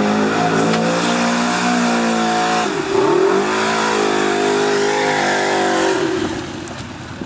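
Off-road vehicle engine running hard at high revs, its pitch dropping sharply about three seconds in and climbing back up, then fading away near the end.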